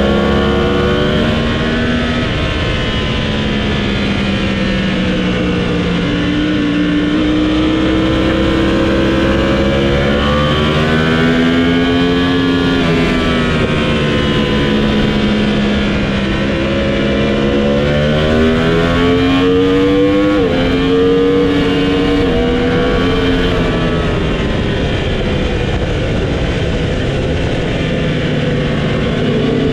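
Motorcycle engine at speed on a race track, heard from the bike itself: the revs climb and fall through corners and straights, with quick gear changes as sudden steps in pitch about twenty seconds in, over steady wind rush.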